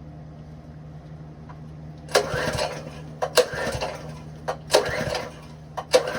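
Ironton 208cc small engine being cranked on its recoil pull-starter without catching: four short rasping pulls starting about two seconds in, roughly a second apart. The owner suspects bad gas.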